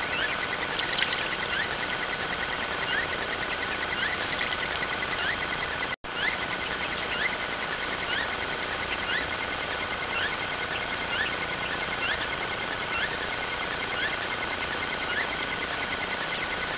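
A small bird repeating a short rising chirp about once a second, over the steady hiss and thin whine of a trail camera's microphone.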